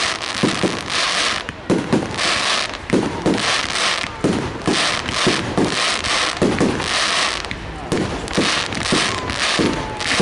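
Fireworks display going off: a continuous run of bangs, roughly two a second, with bursts of crackling fizz between them.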